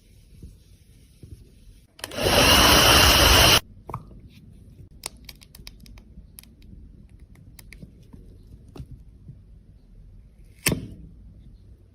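A loud whirring noise for about a second and a half, like a small electric appliance running briefly, then scattered light clicks and taps and one sharper knock near the end.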